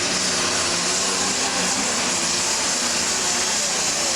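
Turbocharged diesel super stock pulling tractor running flat out under load during a pull. The engine note is loud and steady, with a strong high, hissing edge.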